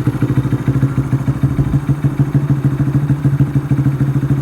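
2019 Honda Grom's single-cylinder engine idling steadily through a Vance and Hines full exhaust, the engine already warm. A loud, deep, burbly, even pulse with no revving.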